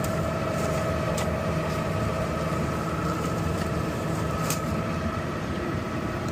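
Garbage truck running steadily, a low drone with a steady whine over it. Two short sharp clicks, about one second in and near the middle.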